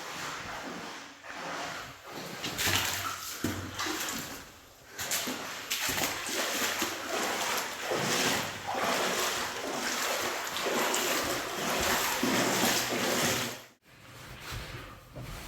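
Water splashing and sloshing in irregular surges, with a sudden break near the end.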